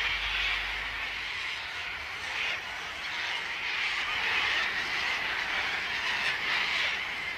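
A large flock of sulfur-crested cockatoos screeching all at once, merging into one continuous, steady, high-pitched din.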